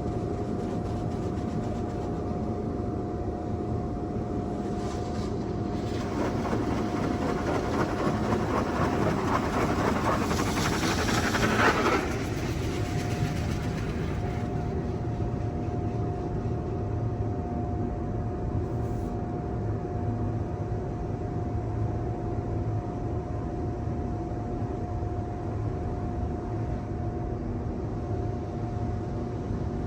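Petit AccuTrac 360-i in-bay automatic car wash running: a steady low rumble with a constant whine. A spray hiss builds from about six seconds in, peaks around twelve seconds, and stops abruptly.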